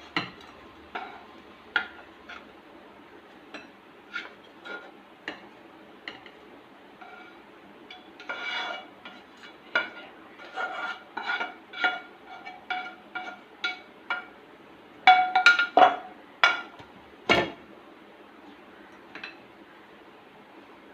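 Spoon clinking and scraping against a metal bowl as the chicken filling is spooned into the cake batter. The strikes come irregularly, some with a short ringing tone, and are loudest in a cluster about three quarters of the way through.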